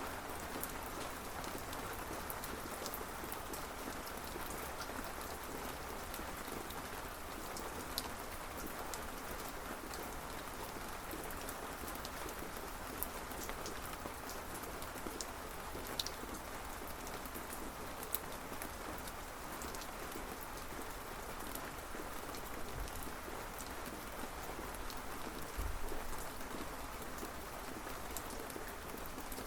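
Steady rain falling on a surface, with single drops ticking sharply now and then. A brief low rumble comes near the end.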